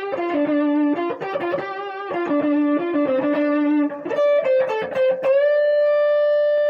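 Electric guitar playing a fast run of single blues notes, then bending a note up slightly about five seconds in and holding it as one long sustained note. The run works through the fifth and flat seventh, ending with the flat seventh bent up to the root.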